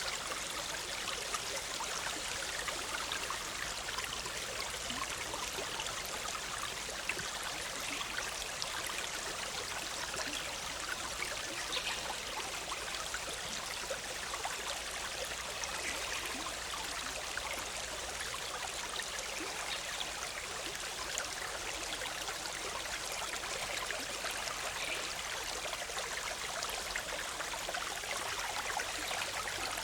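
Forest stream, the Big Sur River, bubbling and rushing steadily, with many tiny splashes and droplet ticks running through it.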